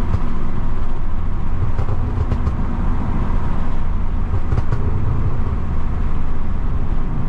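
Lexus IS250's V6 engine running steadily under way, with road noise and a low drone. A few faint crackles come through about two seconds in and again around four and a half seconds in.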